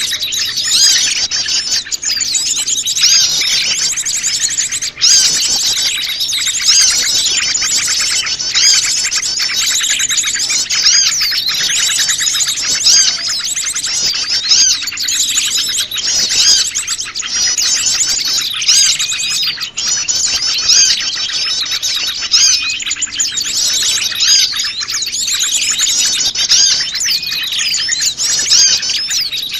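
Noisy chorus of many small wild birds chirping and twittering over one another without pause: a mixed small-bird lure call recording.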